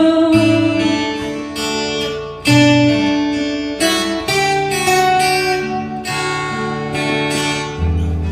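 Acoustic guitar strumming chords with no singing, a fresh strum and chord change about every second.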